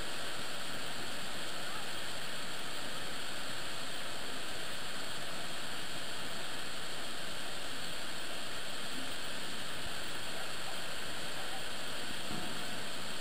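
Steady, even rush of water from Niagara Falls, with no breaks or separate events.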